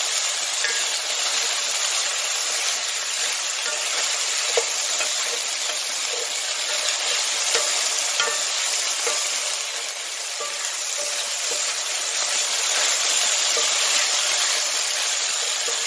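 Diced potato and onion sizzling steadily in an oiled cast-iron skillet, stirred with a wooden spoon that scrapes and taps lightly against the pan now and then.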